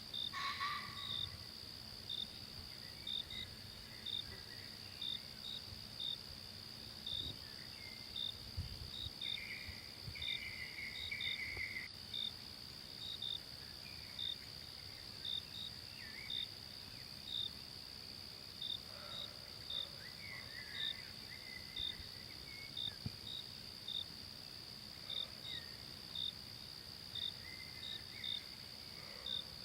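Insects in a forest: a steady high-pitched trill, with a cricket chirping regularly about one and a half times a second over it, and a few faint scattered calls.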